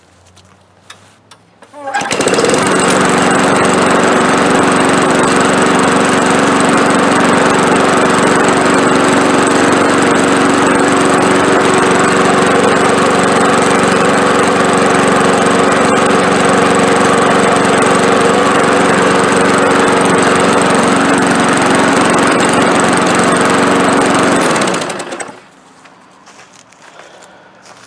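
A 5.5 hp Briggs & Stratton push-mower engine starts about two seconds in, runs steadily at an even speed for about 22 seconds, then stops. It holds steady without surging after its carburetor was cleaned with carburetor cleaner.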